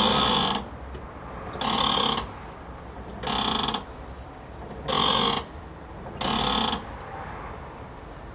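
Worn strut tower (top-mount) bearing squeaking as the front wheel is steered, five half-second squeaks about a second and a half apart that stop shortly before the end. The squeak is the sign of a worn-out strut bearing.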